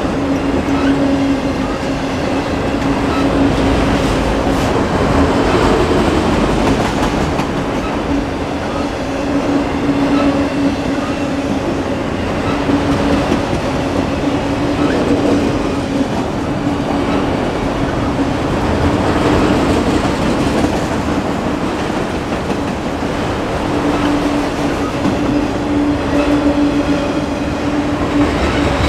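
Auto rack freight cars rolling past: a steady rumble and clatter of steel wheels on rail, with a low humming tone that comes and goes.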